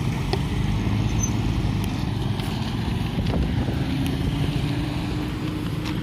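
Motor vehicle engines running close by in road traffic, a steady rumble, with a faint engine tone rising slightly in the second half.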